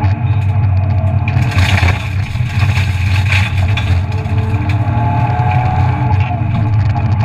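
BMW E36 323ti rally car's 2.5-litre straight-six engine running hard as the car drives a stage, heard from inside the stripped cabin. A brief rush of road noise comes in about a second and a half in and again just after three seconds.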